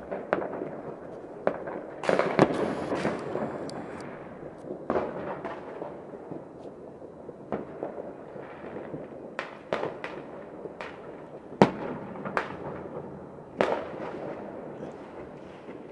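Fireworks going off across a city: irregular sharp bangs and firecracker pops over a continuous crackling rumble of distant explosions. The densest burst comes about two seconds in and one loud bang near the middle.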